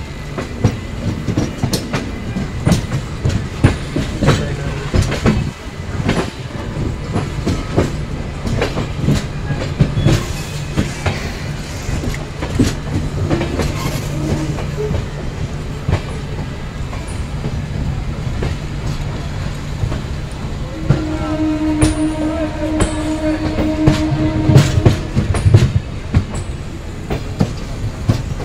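Indian Railways express train running over rail joints and points, wheels clacking irregularly under a steady low rumble as it nears its terminus. About three quarters of the way through, a train horn sounds one steady blast lasting about four seconds.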